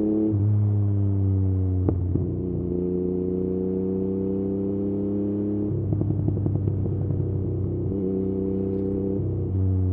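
Yamaha MT-09's three-cylinder engine through an Akrapovič exhaust while riding. The engine note drops sharply at the start, then runs at low, steady revs with a slowly sinking pitch. A run of short crackles comes in the second half.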